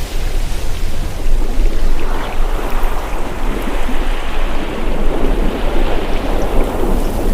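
Loud, steady rushing of water with a deep low rumble underneath, swelling about two seconds in.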